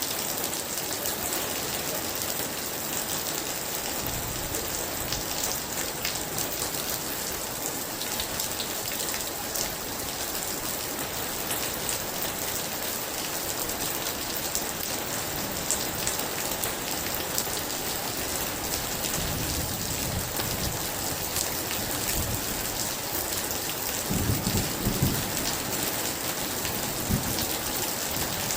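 Very heavy rain falling steadily, with low rumbles of thunder rolling in a few seconds in; the strongest rumble comes near the end.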